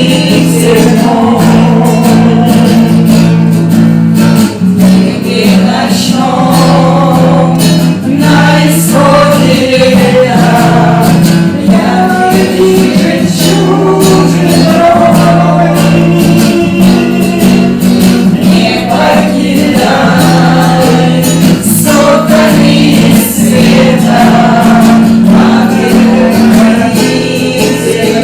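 Several voices singing a slow song together over a steady instrumental accompaniment whose low chords change every couple of seconds.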